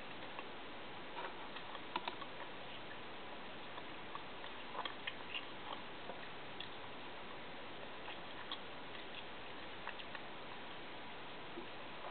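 Faint, scattered soft clicks and ticks over a steady hiss: a person eating and chewing food.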